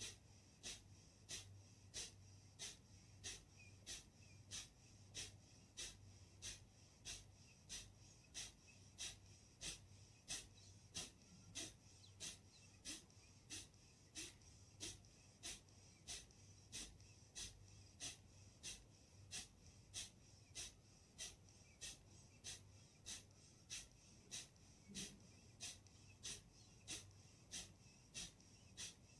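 Kapalbhati breathing: short, forceful nasal exhalations in a steady rhythm, about three every two seconds, faint, over a low steady hum.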